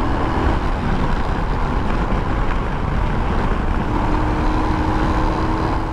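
Royal Enfield Himalayan BS6 running steadily, with the engine heard under a constant rush of road and wind noise.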